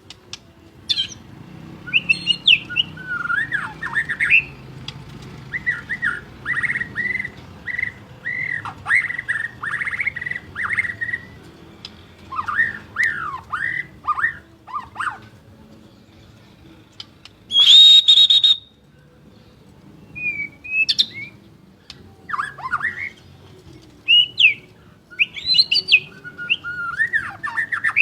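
White-rumped shama (murai batu) singing: a long, varied run of quick whistled phrases that rise and fall, with a loud harsh burst about two-thirds of the way through.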